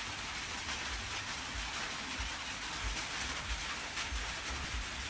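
Steady rain falling on a roof, an even hiss with irregular low rumbling underneath.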